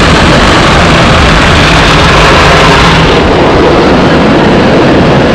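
Loud, steady roar of an automatic car wash heard from inside the car: water and machinery pounding on the car with a deep rumble, easing slightly about three seconds in.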